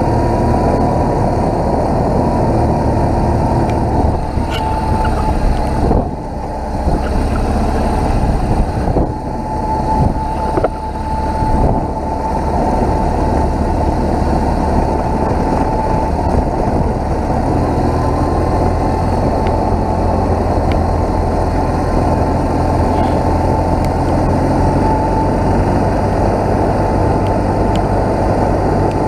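BMW R1200GS boxer-twin engine running as the motorcycle rides along, over a steady rush of wind and road noise. The sound dips briefly a few times about a third of the way in, then settles back to a steady drone.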